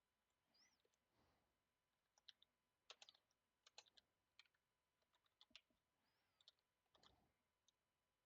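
Faint typing on a computer keyboard: scattered keystroke clicks, bunched mostly in the middle few seconds.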